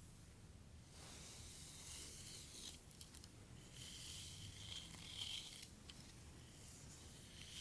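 Faint swishing and rustling of hair being brushed and handled, with a few light clicks.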